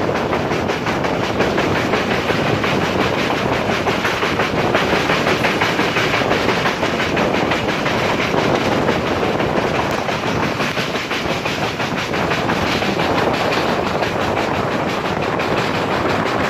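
Passenger train running at speed, heard from on board: a steady rush of wheel and track noise with a rapid clatter of wheels over the rail joints.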